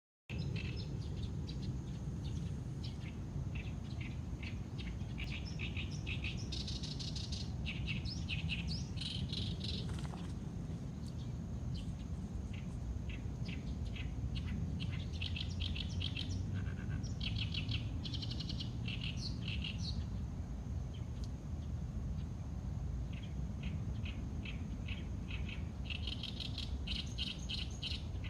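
Small birds chirping in quick runs of rapidly repeated high notes, coming and going several times, over a steady low rumble.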